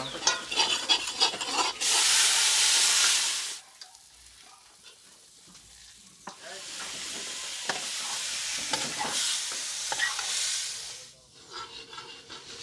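A metal ladle clinking and scraping in a steel cooking pot over a wood fire, then loud sizzling as ingredients go into the hot oil: a burst of about two seconds, and after a quieter pause a longer spell of about four seconds as food is tipped in from a steel bowl.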